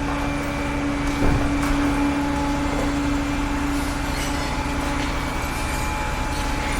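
Truck engine running steadily with a constant low drone, and a single knock about a second in.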